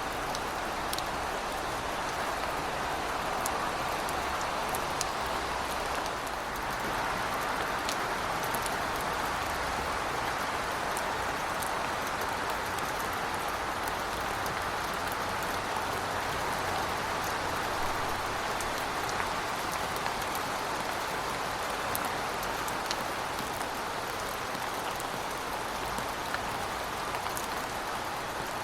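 Heavy rain falling steadily, with many individual drops ticking on hard surfaces. A faint low rumble sits underneath during the first half.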